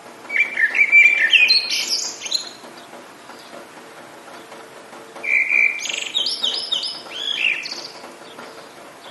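A songbird singing two phrases of quick, varied chirps and sweeping notes, each about two seconds long, a few seconds apart, over a steady background hiss.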